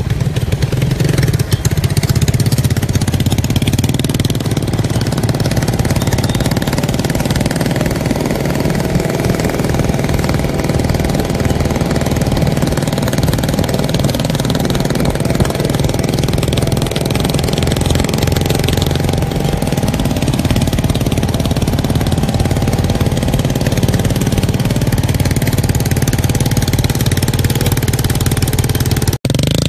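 Homemade drift trike's 225cc engine running steadily at an even, low speed, with a brief cut-out about a second before the end.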